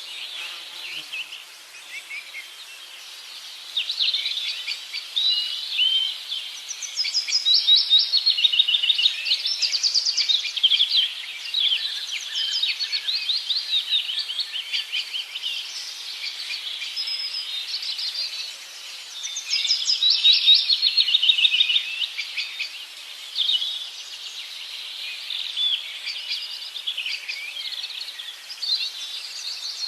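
Many small birds calling at once: a dense chorus of rapid, overlapping chirps and trills, swelling louder twice.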